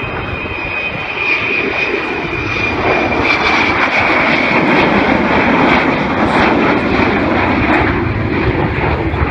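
Avro Vulcan's four Rolls-Royce Olympus jet engines during a low pass with the undercarriage down in landing configuration. The engine noise grows louder to a peak around the middle and eases slightly near the end, with a high whine that fades out about three seconds in.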